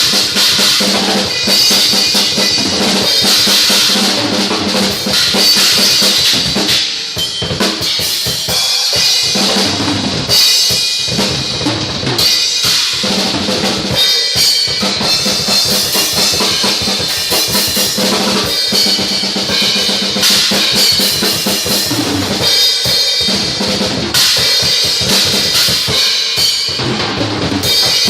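Pearl Export drum kit played hard: rapid bass drum strokes and snare hits under a constant wash of crash and ride cymbals, with a couple of brief breaks about a third of the way in.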